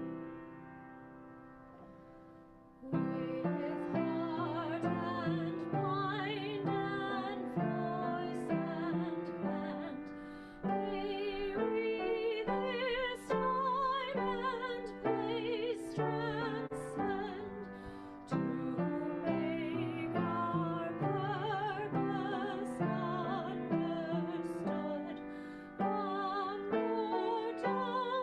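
A hymn sung with piano accompaniment. A held chord fades for the first few seconds, then the singing and piano start again about three seconds in and carry on steadily.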